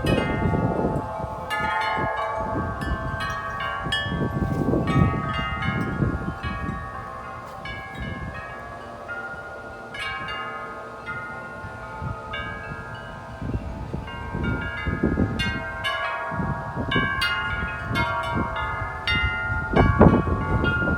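Several large tuned wind chimes ringing together in strong, gusting wind, their struck tones overlapping and sustaining. Wind buffets the microphone in gusts, easing off for a calmer stretch in the middle, when fewer strikes sound.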